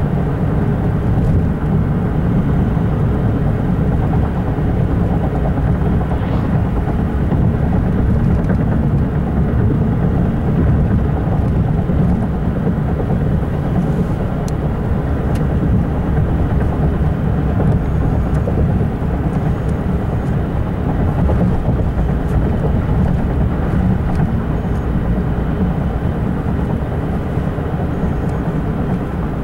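Freight train passing at speed, double-stack container cars giving a steady, heavy low rumble of wheels on rail, with faint high squeals and ticks here and there.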